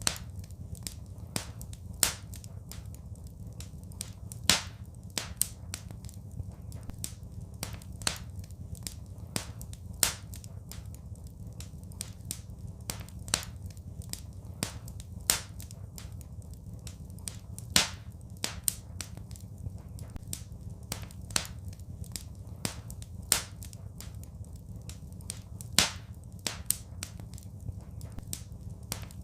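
Wood fire crackling in a fireplace: irregular sharp snaps and pops, a few much louder than the rest, over a steady low rumble.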